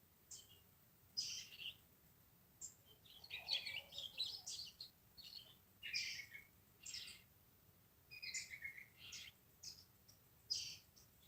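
Birds chirping, with short high calls coming in bursts every second or so and a busier run of calls about three to five seconds in.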